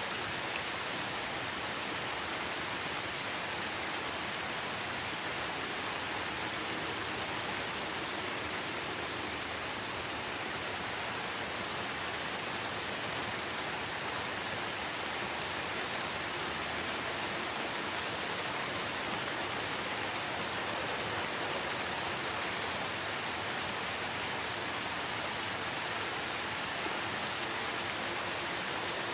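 Steady rain falling in a dense, even hiss, with a few faint drop ticks standing out here and there.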